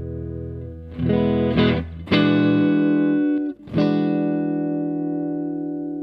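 Electric guitar played through a Fender Hot Rod Deluxe IV, a 40-watt tube combo amp with a 12-inch Celestion speaker: several chords struck about a second in, briefly cut off, then one last chord left to ring and slowly fade.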